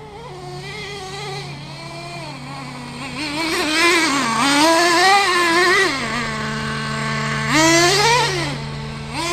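Traxxas 3.3 two-stroke nitro engine of an RC monster truck revving up and down under repeated throttle bursts while the truck is driven. It settles to a lower idle for about a second and a half after the loudest run, then revs hard again, twice more near the end.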